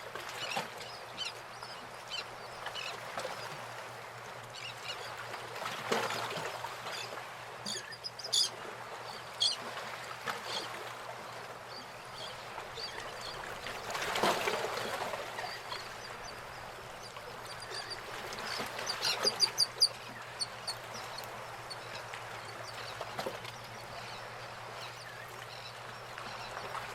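Birds calling outdoors in two short runs of rapid, repeated honking calls, one about a third of the way in and a louder one past the middle, over a steady background of outdoor noise.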